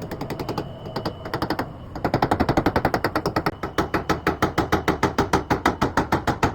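Rapid, even clicking at about eight clicks a second, irregular for the first two seconds and then steady.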